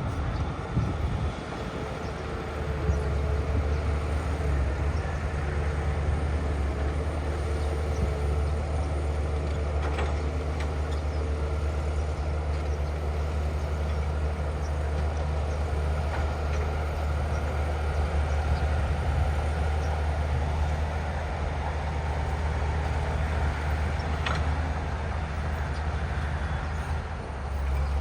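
Heavy earthmoving machine's diesel engine running steadily with a deep, even hum, with a few faint clanks.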